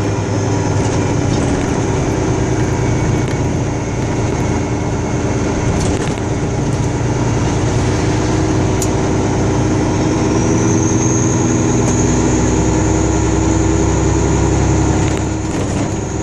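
Pickup truck driving on a road, heard from inside the cab: steady engine hum and road noise, with a few light clicks and knocks.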